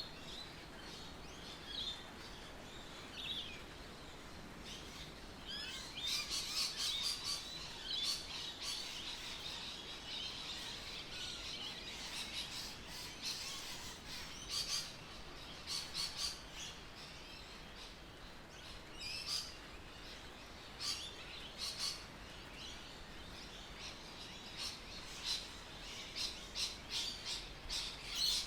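Birds chirping and calling, many short high chirps over faint background noise, busiest from about six seconds in and coming in quick runs near the end.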